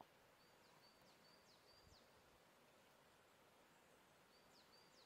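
Near silence with a faint songbird singing: a phrase of four paired notes, each a short high steady whistle followed by a quick falling slur, repeated again about four seconds in.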